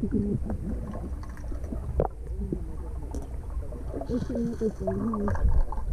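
Indistinct voices in the background over a steady low rumble of pool water moving around people standing in it.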